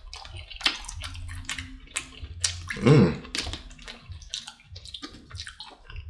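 Close-miked wet chewing of a mouthful of cabbage: irregular smacking and squelching mouth clicks, with a brief hummed 'mm' about three seconds in.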